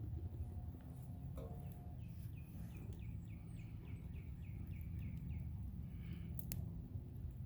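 A bird calling a run of about a dozen short falling notes, about four a second, over a steady low rumble, with a few sharp clicks.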